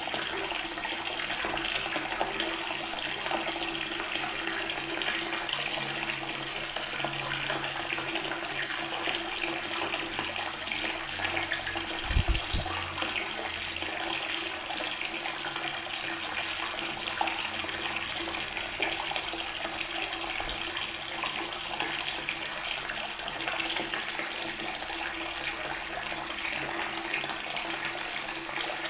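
Water from a tap running steadily and splashing onto natural stone, with one brief low thump a little past halfway through.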